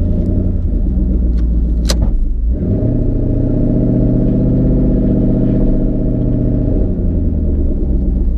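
Twin-turbo 5.0 Coyote V8 of a 2014 Mustang GT running with a heavy low rumble. A brief sharp sound comes just before two seconds in. The engine speed then rises a little, holds for about four seconds, and drops back near the end.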